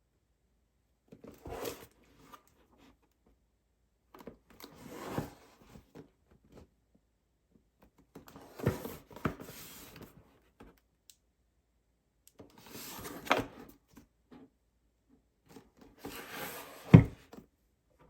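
Five short bursts of rustling handling noise, each with a sharp knock, about every three to four seconds; the last knock is the loudest.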